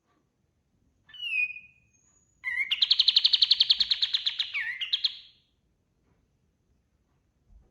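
A kapas tembak songbird singing: a short falling whistle, then a loud fast trill of about twelve notes a second lasting nearly three seconds, ending in a twisting flourish.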